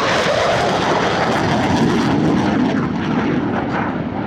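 Blue Angels Boeing F/A-18 Super Hornet jet making a low, fast pass, its two turbofan engines giving a loud, steady roar.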